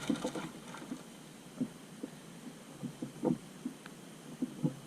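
Scattered dull thumps and knocks at irregular intervals, clustered in the first second, then sparser, with one louder knock a little past halfway.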